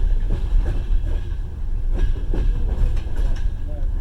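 Passenger train running along the line, heard from inside the carriage: a steady low rumble with the wheels knocking over rail joints, the knocks coming in pairs several times.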